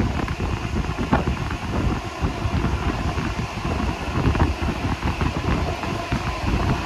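Passenger carriage running at speed, a rough rumble of the train on the track mixed with wind buffeting the microphone at the open carriage window.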